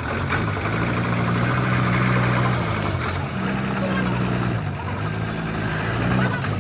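A motor vehicle's engine running, its pitch rising and falling twice as the revs go up and come back down.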